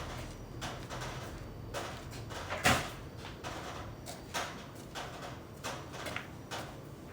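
Irregular light knocks and taps, several a second apart, with one louder knock about two and a half seconds in.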